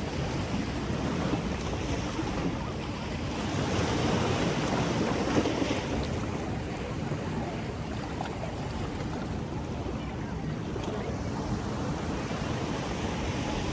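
Ocean surf washing onto a beach, with wind rumbling on the microphone; the waves swell louder about four to six seconds in.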